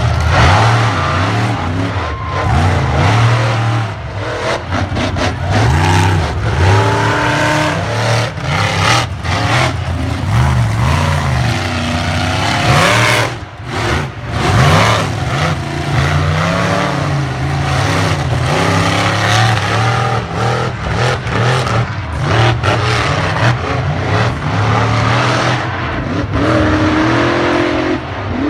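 Monster truck engines revving hard, their pitch repeatedly rising and falling as the throttle is worked, with scattered sharp bangs.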